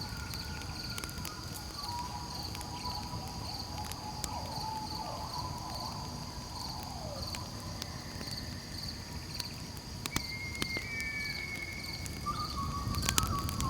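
Campfire crackling with scattered sharp pops, a sharper cluster near the end, over a low rumble of burning wood, with crickets trilling steadily in a fast even pulse. Faint long whistling tones sit in the background.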